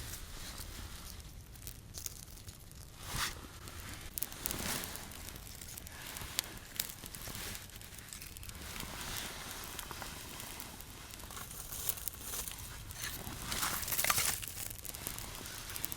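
Irregular rustling, crinkling and scratching of material being handled, with scattered sharp clicks and a louder patch of rustling near the end.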